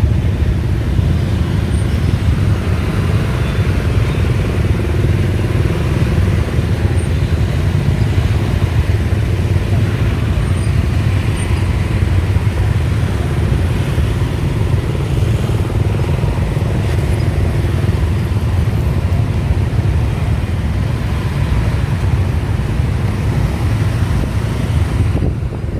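Motorbike running along the road, heard from the passenger seat: a loud, steady low rumble of engine and road noise.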